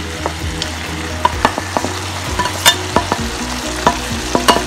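Spiced masala gravy boiling and sizzling in a pan on the stove, with scattered sharp clicks and taps in the pan.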